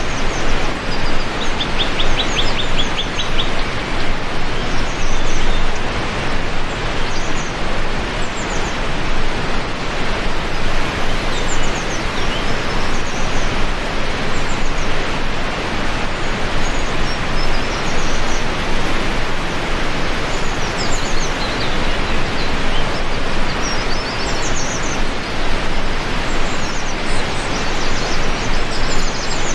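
Heavy rain falling steadily on a window, an even hiss, with birds chirping now and then above it.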